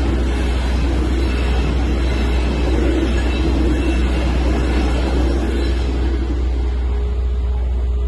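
Intercity train's passenger coaches rolling past on the rails, the wheel and track noise dying away about six seconds in as the end of the train clears. A steady low rumble runs beneath throughout.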